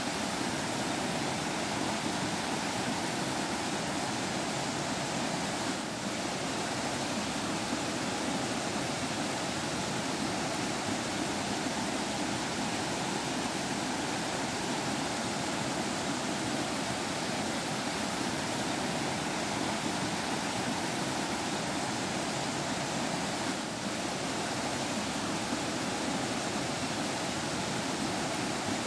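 A stream flowing steadily: an even, unbroken rush and babble of running water.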